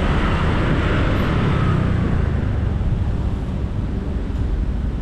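Road noise heard from a moving motorbike in heavy traffic: a steady low rumble of engines and wind on the microphone, with a louder rush over the first two seconds that then eases off.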